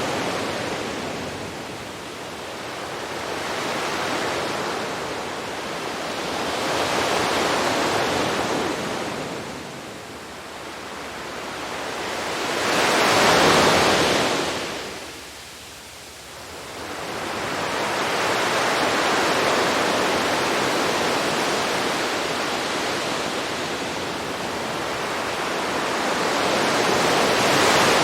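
Sea waves washing onto a beach, the surf swelling and fading in slow surges every few seconds, with the loudest wave breaking about halfway through.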